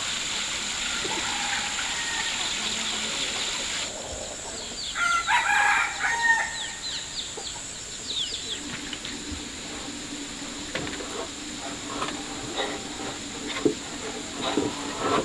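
Running water hissing steadily, cutting off suddenly about four seconds in. Then a rooster crows once, briefly, among chicken clucks, followed by scattered light knocks and clatter over a low steady hum.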